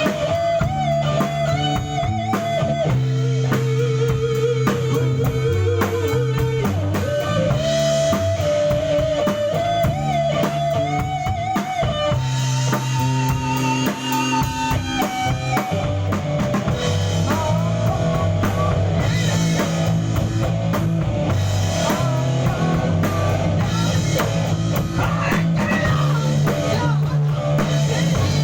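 Rock band playing in a studio: guitars and a drum kit, with a melody line that holds and slides over a bass line that changes every second or two.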